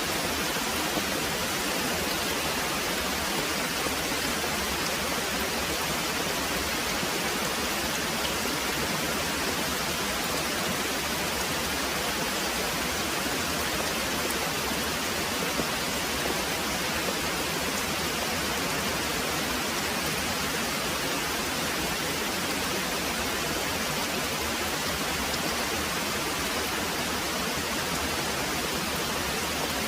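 Very heavy rain pouring steadily: an even, unbroken hiss with no distinct drops or thunder standing out.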